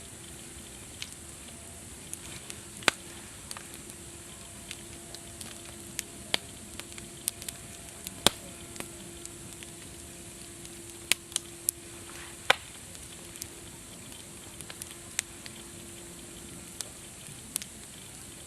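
Campfire crackling: irregular sharp pops and snaps from the burning wood over a steady soft hiss, with a few louder cracks scattered through.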